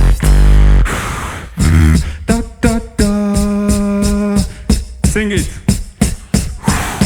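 Live vocal beatboxing. Heavy deep bass sounds through the first second, then sharp percussive hits at a steady beat under a held sung note, with a falling vocal glide about five seconds in.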